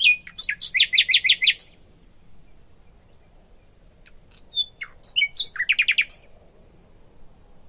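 A small songbird singing two short phrases about four seconds apart. Each is a few sharp high notes and then a quick trill of repeated notes.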